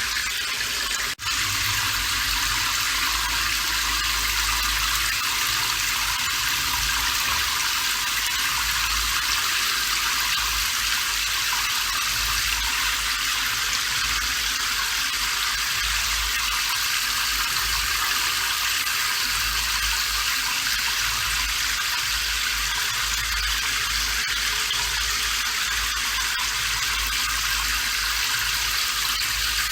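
Steady rain: an even, high hiss of falling water that cuts out for an instant about a second in.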